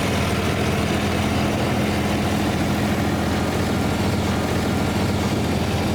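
Tractor engine running steadily at low revs, a constant low hum.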